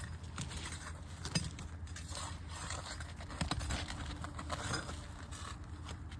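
Scraping and irregular small clicks as an old, brittle asphalt shingle is worked loose from the roof, with something still holding it down.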